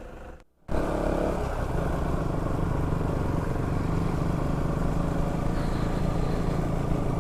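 KTM Duke 200's single-cylinder engine running steadily under way, with road and wind noise. The sound cuts out briefly just under a second in, then comes back.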